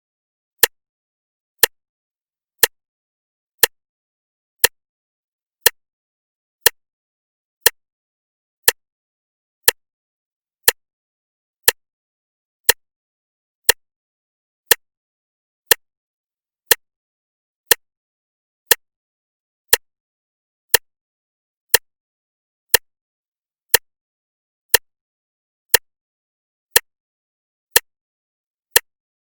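Clock ticking once a second, with sharp, even ticks and silence between them.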